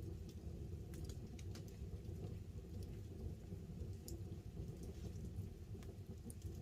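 Wood campfire burning, with scattered sharp crackles and pops over a low, steady rumble.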